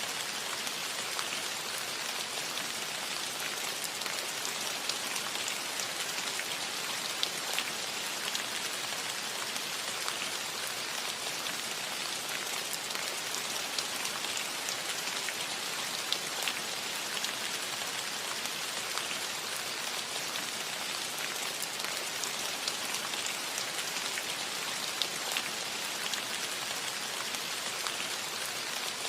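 Soft, steady rain on a metal roof: an even hiss with many small, sharp drop ticks scattered through it.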